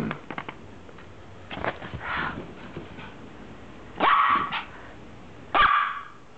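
Brussels Griffon dog barking several times in short, sharp barks, the two loudest in the second half.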